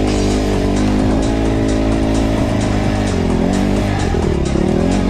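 Motocross bike engine running, its pitch dropping and climbing again with the throttle about three and four seconds in, under music with a steady beat.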